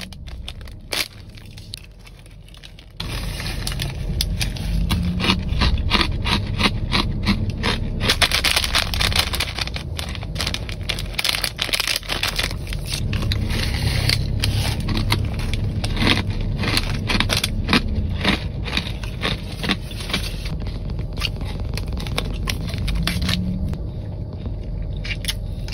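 Crunchy snack food being chewed close to the microphone: dense, irregular crackling crunches. A low steady rumble sits underneath from about three seconds in.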